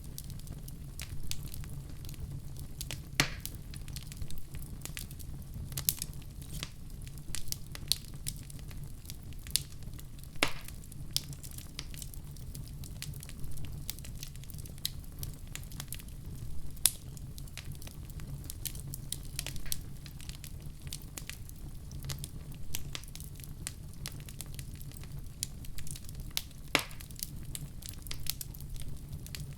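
Fireplace fire crackling and popping over a low steady rumble, with a few sharper, louder pops now and then.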